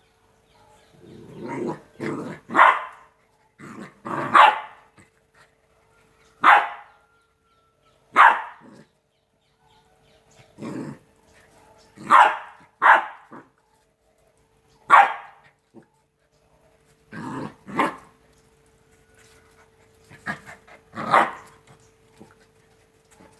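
Two-month-old Rottweiler puppies barking in play, about fifteen short barks at uneven intervals with pauses of a second or two between some of them.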